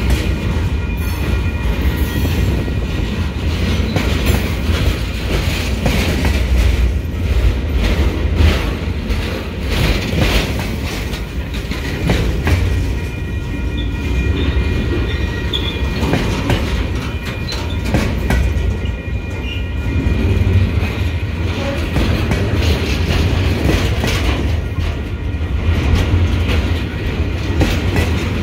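Freight train of empty DODX military flatcars rolling past at close range: a steady low rumble of wheels on rail, with frequent irregular clacks as the wheels cross the track joints.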